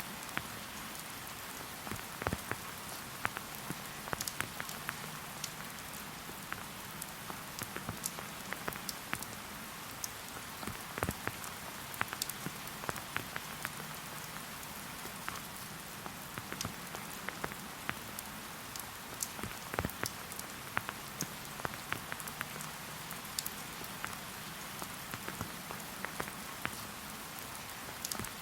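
Steady rain falling in a forest: an even hiss of rainfall with many separate drops ticking sharply and irregularly on nearby surfaces.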